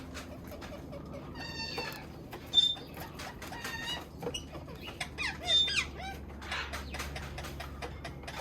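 Parrots calling: a series of short squawks and whistled, gliding calls scattered through, the loudest about two and a half and five and a half seconds in.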